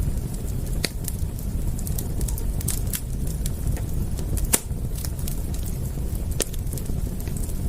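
Wood fire crackling: a steady low rumble under frequent sharp pops and snaps, the loudest pop about four and a half seconds in.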